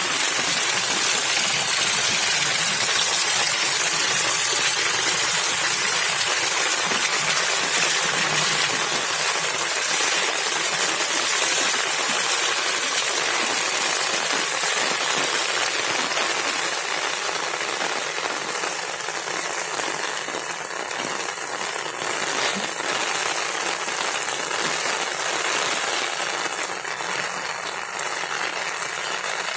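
Heavy monsoon rain falling steadily: a dense hiss of raindrops pattering on wet ground and standing water. It eases slightly in loudness in the second half.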